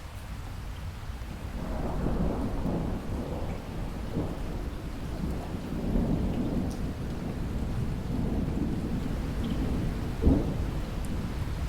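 Steady rain with rolling thunder that swells about a second and a half in and keeps rumbling, and a sudden louder jolt near the end.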